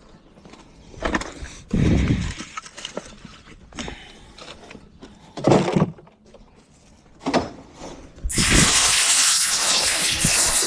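Scattered knocks, thuds and clatters of junk and debris being handled, with a heavy low thud about two seconds in and the loudest clatter past the middle. From about eight seconds in, a steady loud hiss sets in and holds.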